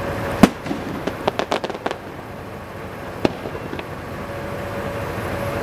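Aerial fireworks bursting: a loud sharp bang about half a second in, then a quick run of smaller crackling pops, and another bang about three seconds in, over a steady background hiss.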